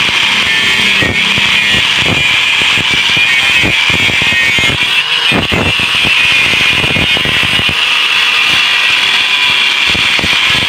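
Angle grinder cutting into the steel shell of a refrigerator compressor, a steady loud high-pitched grinding with irregular scraping and rattling underneath.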